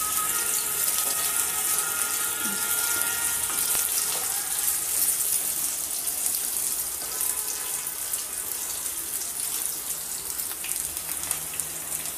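Boiled potato pieces frying in hot ghee with cumin seeds in a kadhai: a steady sizzle with fine crackling, stirred with a wooden spatula.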